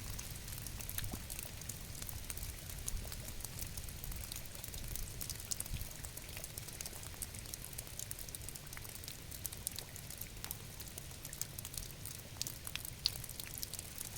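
Steady rain, a dense scatter of sharp drop ticks over a soft low rumble.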